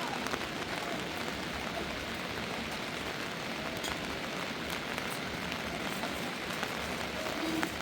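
Steady heavy rain falling, an even hiss with a few faint drop ticks.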